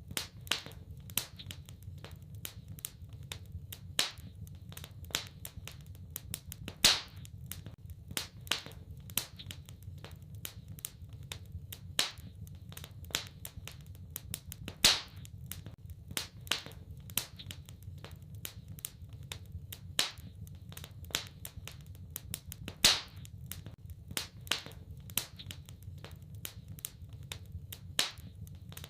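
Wood fire crackling in a fireplace: a steady stream of small ticks and snaps, with a louder sharp pop every few seconds, over a low steady rumble.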